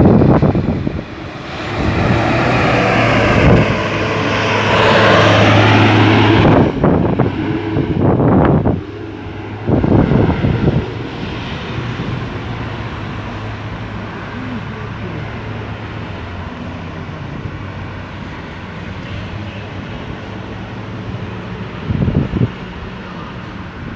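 Road traffic at a busy roundabout: a large vehicle's engine passes close by for several seconds with its pitch gliding. A few short loud bursts of noise follow, then a steady traffic hum.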